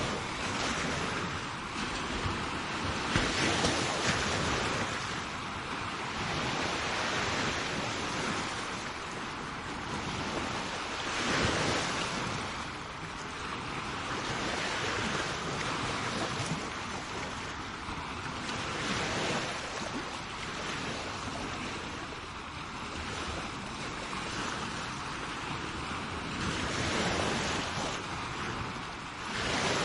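Sea waves breaking and washing up on a shore, a steady surf hiss that swells every few seconds as each wave comes in.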